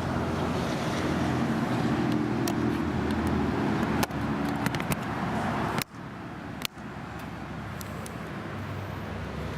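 Harley-Davidson 103-inch fuel-injected Twin Cam engine idling steadily through a Vance & Hines X-pipe exhaust, with a few light clicks. The sound briefly drops out about six seconds in, then carries on a little quieter.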